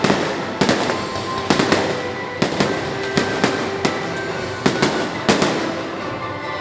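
Fireworks going off in an irregular series of sharp bangs, about two a second, with music playing under them.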